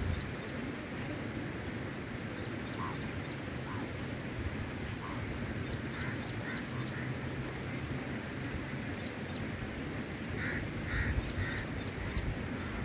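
Birds calling: small groups of short high chirps several times, and three louder, harsher calls in quick succession near the end, over steady outdoor background noise.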